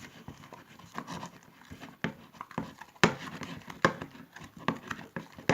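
Hands kneading and pulling a soaking-wet glue slime: irregular wet squelches and sharp sticky snaps, the loudest a little after three seconds in and again just before four. The wetness is, by her own account, from too much activator.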